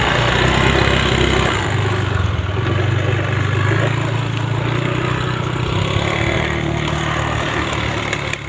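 An engine running steadily, its level dropping near the end.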